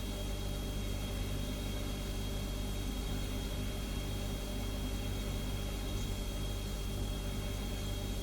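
Refrigerator humming steadily: a low, even hum with a thin, steady high-pitched whine above it.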